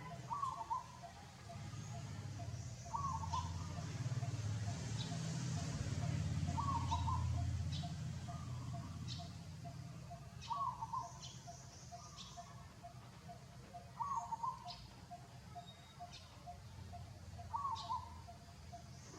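A bird repeating a short call about every three and a half seconds, over a fast, steady pulsing note and a low rumble that swells in the middle.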